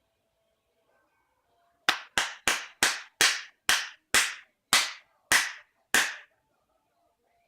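A series of ten sharp strikes, each with a short fading ring. They start about two seconds in, come quickly at first, then gradually slow down.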